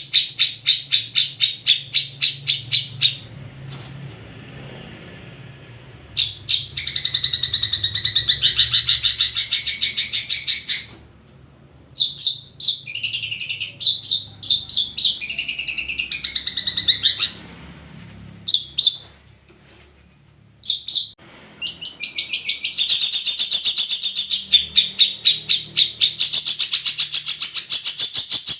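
Long-tailed shrike (cendet) singing in the full, continuous 'ombyokan' style. Bursts of fast repeated notes and rapid trills alternate with varied warbling, broken by short pauses.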